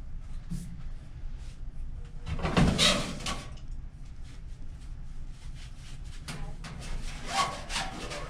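Knocks, clicks and clattering of things being handled and moved, loudest about two and a half to three and a half seconds in and again near the end.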